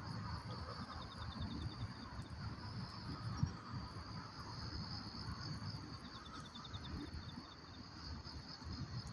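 Autumn night insects, crickets among them, chirping in a steady high-pitched chorus, with two short pulsed trills near the start and about six seconds in. Underneath runs a low rumble, and a single sharp pop comes about three and a half seconds in.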